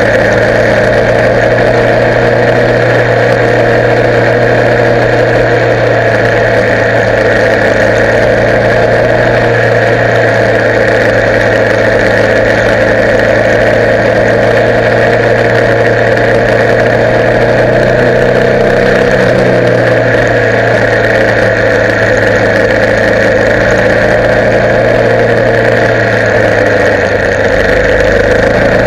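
Motorcycle engine running steadily at an almost constant engine speed, loud and close to the microphone.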